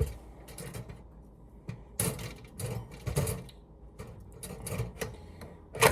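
Pop-up toaster and toast being handled: scraping and rustling as the toast is pulled out and checked, with a sharp click at the start and a louder click just before the end.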